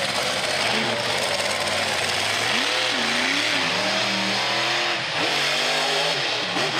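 Monster truck engine running loud and revving, its pitch rising and falling twice, over a steady wash of engine noise.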